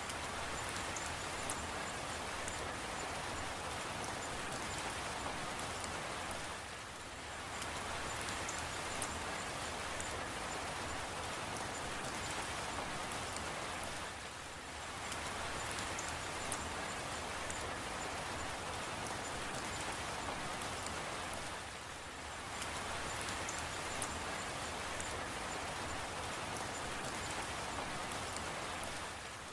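Steady rain falling, a dense even hiss with faint scattered drops, its level dipping briefly about every seven and a half seconds.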